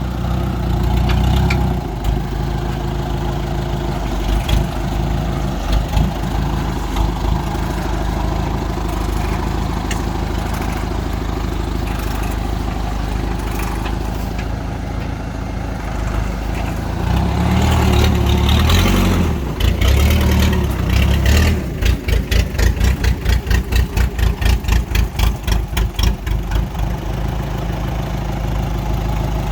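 Engine of a homemade loader built from an old Rino truck, running steadily. It is worked harder for a few seconds past the middle, then goes into a rapid rhythmic pulsing of about three beats a second for several seconds before settling back.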